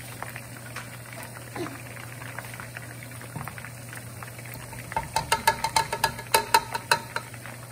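Chicken pieces frying in oil with a steady light sizzle and scattered crackles. About five seconds in, a quick run of a dozen or so sharp taps as ginger-garlic paste is knocked from a plastic measuring cup into the pot.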